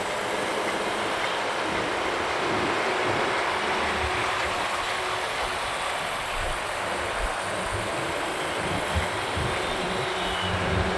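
Steady wind and road noise from a motorcycle riding along city roads, an even rush without distinct events.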